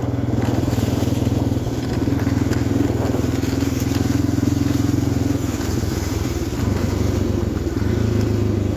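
Yamaha XT350 single-cylinder four-stroke engine running under way on a dirt trail, a steady pulsing note with the throttle easing off briefly a couple of times.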